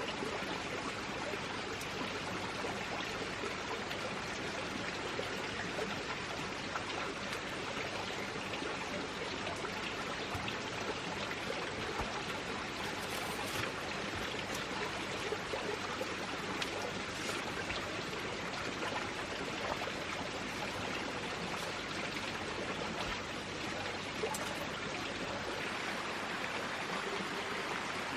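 Steady rushing of flowing water, like a forest stream, with a few faint ticks.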